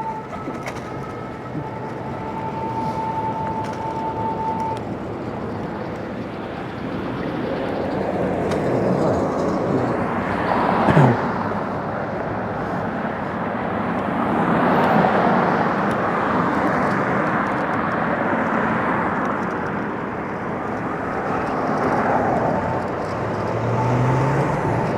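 Road traffic heard from a moving e-bike: cars pass one after another, their tyre and engine noise swelling and fading, and one goes by about ten seconds in with a sharp falling pitch. A thin steady high tone runs through the first few seconds.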